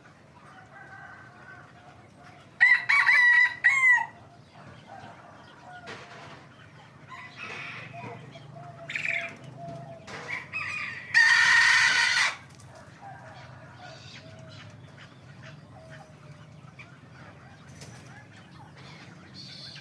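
Young hybrid Indian junglefowl cockerels crowing: one loud crow about three seconds in, with a short break near its end, and a harsher, louder crow around eleven seconds, with quieter calls between and faint calls throughout.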